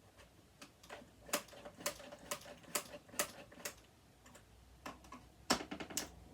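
Irregular sharp clicks and taps of hand tools and small parts against the body of a sewing machine being taken apart, in two clusters.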